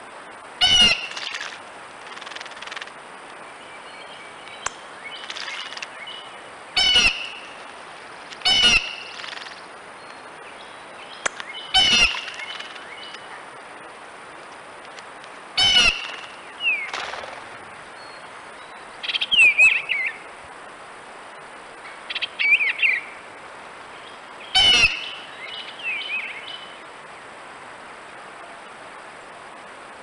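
Birds calling: a short, loud, harsh call repeated about six times at irregular intervals, with softer, higher chirps in between.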